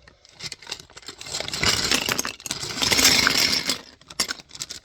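Small plastic LEGO pieces clattering and rattling onto a table as they are poured out of a bag, densest for about two seconds in the middle, with scattered clicks before and after.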